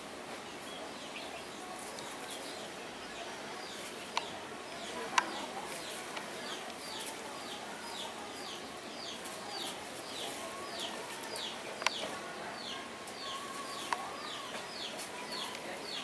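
A bird calling a fast repeated series of short, high, downward chirps, about two or three a second, with a few sharp clicks standing out, the loudest about five seconds in.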